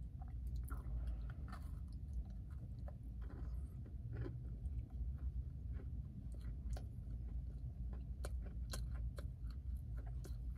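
A person chewing a mouthful of frosted Pop-Tart, with irregular soft crunches and mouth clicks over a steady low hum.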